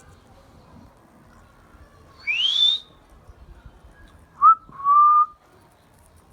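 Indian ringneck parakeet whistling: a rising whistle about two seconds in, then a short note and a longer steady one near the end.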